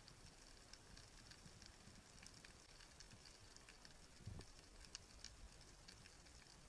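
Faint underwater crackling: scattered small clicks, with a soft low thump about four seconds in.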